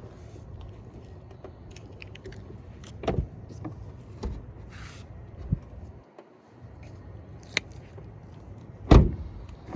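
Car door being swung open and shut over and over, its hinges and door check strap freshly greased to cure a creak. There are several clicks and knocks, and near the end the door shuts with a heavy thump.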